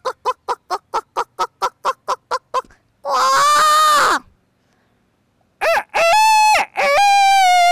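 A woman imitating a chicken with her voice: rapid clucks about five a second, then a string of long, drawn-out calls that sag slightly in pitch.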